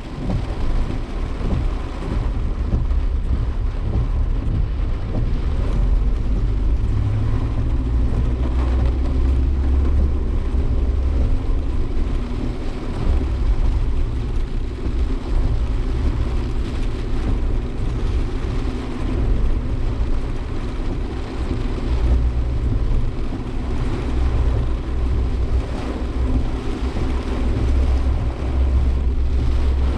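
Suzuki Jimny Sierra heard from inside the cabin while driving: a steady low engine and road rumble with a haze of tyre and wind noise over it.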